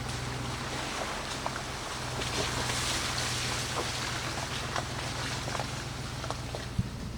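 Ford F-150 pickup creeping along a rocky dirt trail: a steady low engine drone under the crunch and hiss of tyres on gravel, with scattered small knocks and clicks from stones and the load.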